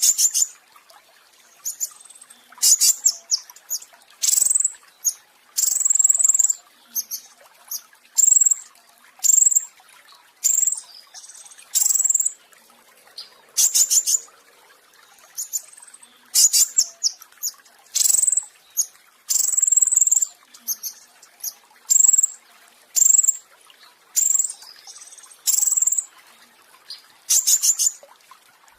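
A petis raja songbird singing in short, high-pitched phrases about once a second, several of them rapid rattling trills: the 'roll tembak' song that bird-song fanciers prize.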